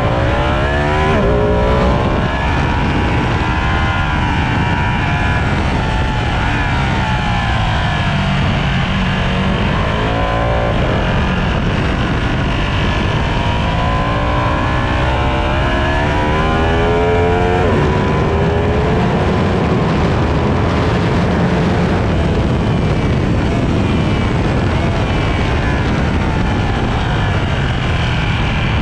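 Sport motorcycle at speed on a race circuit, its engine rising in pitch through the revs and falling away several times as it accelerates and slows for corners, over a steady loud rush of wind and road noise.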